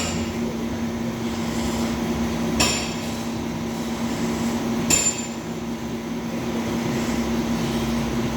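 Three sharp metallic clicks, spaced about two and a half seconds apart, from hand tools and connectors as a wire is temporarily spliced back in, over a steady low hum.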